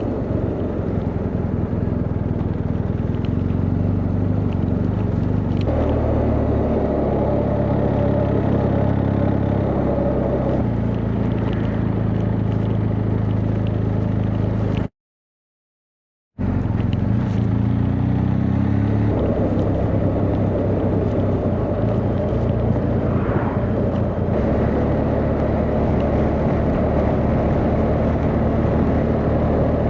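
BMW R 1250 GS boxer-twin engine running under way, with wind and road noise. The engine note steps up and down with changes of speed and rises as the bike accelerates a few seconds after the halfway point. Just before halfway, all sound cuts out completely for about a second and a half.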